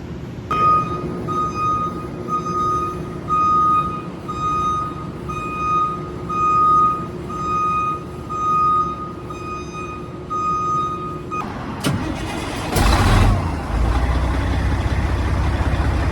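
A fire truck's electronic warning alarm sounds a steady high single-pitched tone for about eleven seconds, pulsing in loudness roughly once a second, then cuts off. A sharp hiss of air follows, and the truck's engine runs on low.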